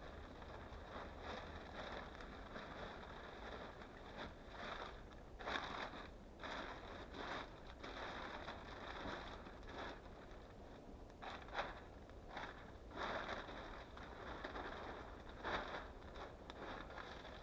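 Irregular scraping and rustling, in short bursts, over a steady low background noise.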